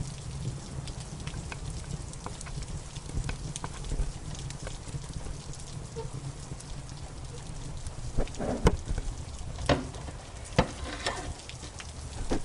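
Steady rain with a fireplace fire crackling over it; the crackles come as scattered sharp pops, growing louder and more frequent from about eight seconds in.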